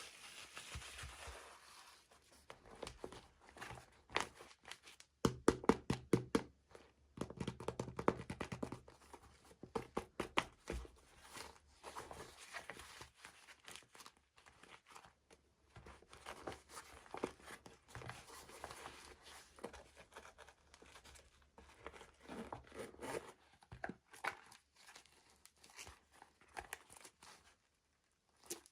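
Toy packaging being unwrapped by hand: crinkling and tearing with many small clicks and taps, in bursts with short pauses.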